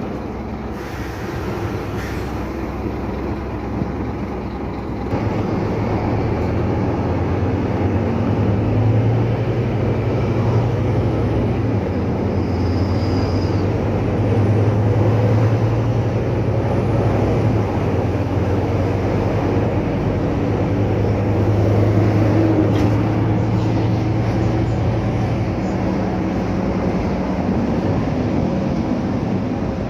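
Scania K310UA articulated city bus under way: its diesel engine drones steadily along with road noise, growing louder about five seconds in as the engine works harder.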